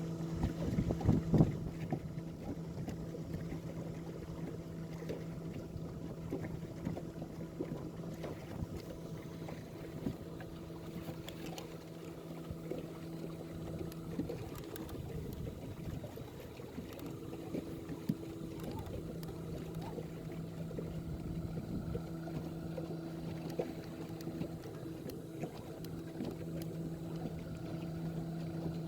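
Boat motor running steadily at trolling speed, a low hum with an overtone, over water and hull wash. The hum weakens about halfway through and strengthens again near the end.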